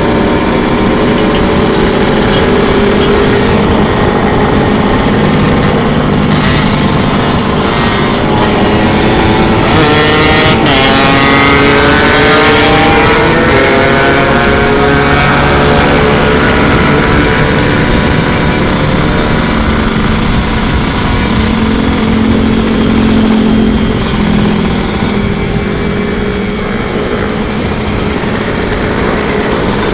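Two-stroke Kawasaki Ninja SSR 150 motorcycle engine running under way. The engine note climbs as it revs and accelerates about a third of the way in, then settles into a steady cruise.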